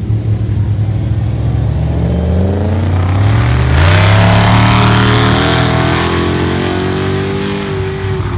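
A car engine revs up from a lumpy idle, its pitch climbing over about two seconds, then holds at high revs during a burnout. From about halfway in, the harsh hiss of the spinning tyres sounds over the engine.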